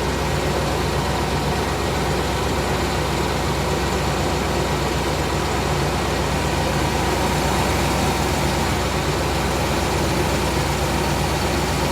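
1998 GMC Savana's 5.7-litre V8 idling steadily shortly after a cold start, with no tick heard yet; the ticking that usually appears after about a minute is one the owner thinks is maybe a hydraulic lifter.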